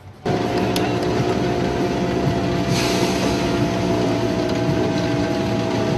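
Alfa Romeo 156 Super Touring race car engine idling steadily, starting abruptly just after the start, with a short hiss about three seconds in.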